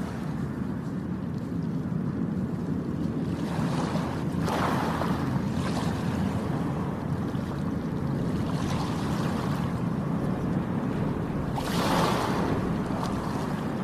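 Sea waves breaking and washing on a shore, the surf hiss swelling every four seconds or so, strongest near the end, over a steady low rumble.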